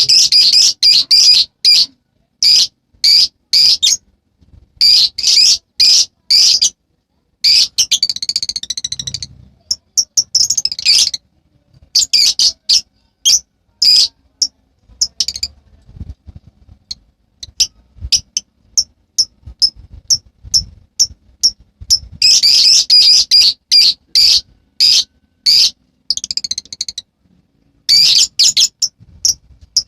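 Lovebird chattering loudly: rapid runs of shrill, high chirps in bursts of a second or two, broken by short pauses.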